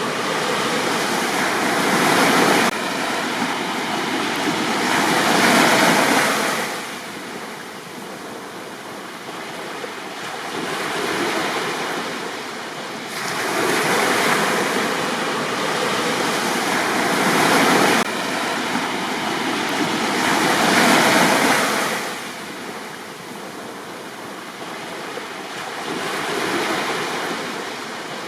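Sea waves breaking on a beach and washing up the shore, swelling into a louder surge every few seconds with quieter lulls between.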